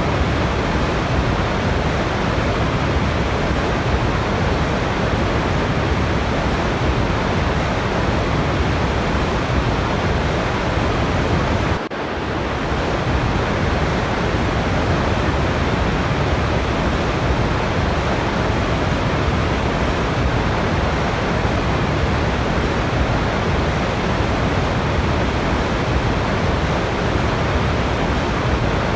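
Waterfall: a steady, even rush of falling water that dips for an instant about twelve seconds in.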